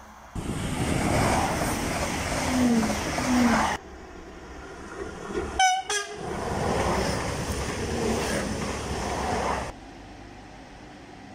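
Coradia Liner V160 regional trains passing at speed: a loud rushing pass that stops abruptly near four seconds in, then after a brief sharp high tone a second pass that ends abruptly near ten seconds, leaving a quieter steady background.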